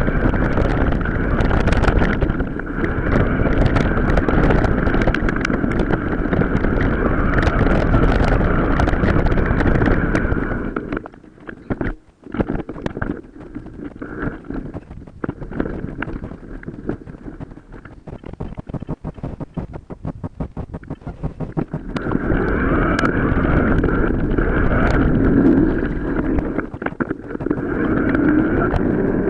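Wind buffeting the microphone over the rattle and tyre noise of a mountain bike riding off road, with many quick clicks and knocks. The noise drops away for about ten seconds in the middle, then comes back loud.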